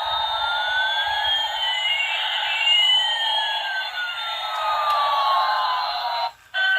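Electronic sweep sound effect: two whistling tones glide across each other, one rising and one falling, over a steady band of hiss, cutting off suddenly near the end.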